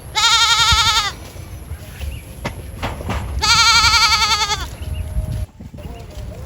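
An animal bleating twice, each bleat about a second long with a fast quavering pitch, the two about three seconds apart.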